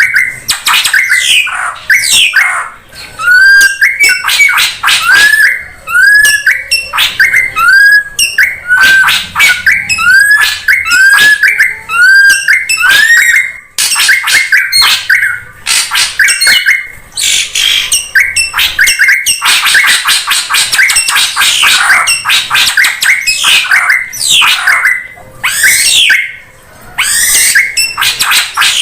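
Drongo (srigunting) lure recording: a loud, busy run of rapid calls and whistles. In the first half a short note that rises then falls repeats about every half second; later the calls turn raspier and denser.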